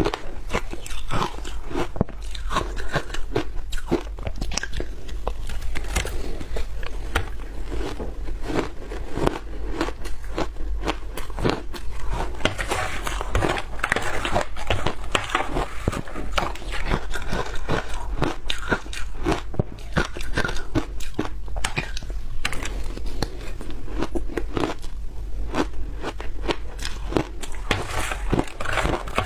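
Close-miked biting and crunching of frozen food, a dense irregular run of crisp crunches with chewing between bites.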